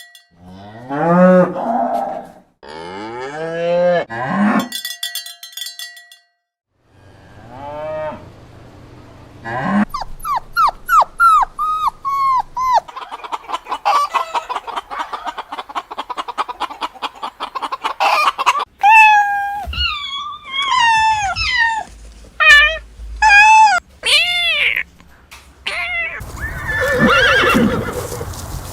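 A run of different farm animal calls one after another, including cattle mooing; the middle part has quick series of high, falling calls.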